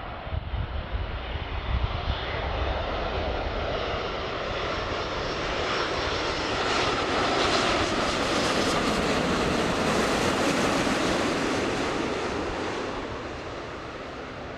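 Jet aircraft on final approach passing close by to land: engine noise swells to its loudest about halfway through, then fades away.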